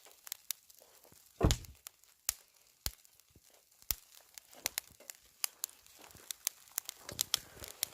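Wood fire in a fire pit crackling and popping, with sharp irregular pops and one louder crack about one and a half seconds in.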